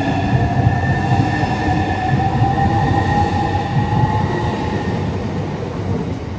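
A train running close by: a heavy rumble from the wheels and track, with a steady whine that slowly falls in pitch, easing off a little toward the end.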